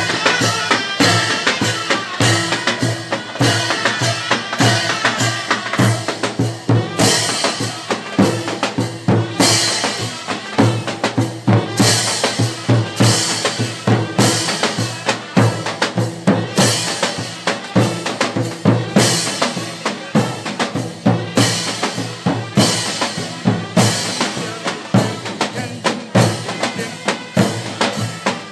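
Mehter military band playing live: big davul drums beat a steady march rhythm, with cymbal crashes about every two and a half seconds over a wind melody.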